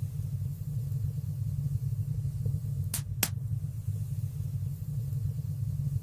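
Wood fire burning in a fireplace: a steady low rumble of the flames with two sharp crackling pops about halfway through, a quarter second apart.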